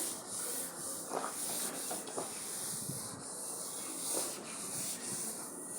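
Sandpaper being rubbed by hand over a truck cab's painted panel, a steady scratchy hiss as the surface is prepared for spraying.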